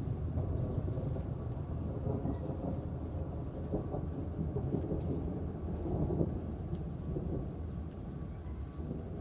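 Rolling thunder: a long low rumble that slowly dies away, over steady rain.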